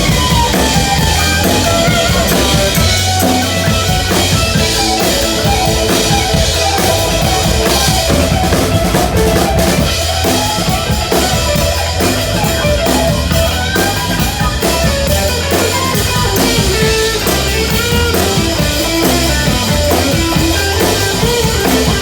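Live band playing loud rock music with no singing: a drum kit keeps a busy beat over steady held notes from the other instruments.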